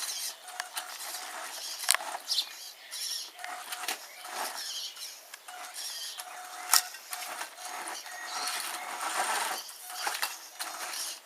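HBX 1/10 scale RC monster truck with a brushed electric motor, its motor whining in short throttle bursts while its tyres and chassis click and knock over rocks and debris.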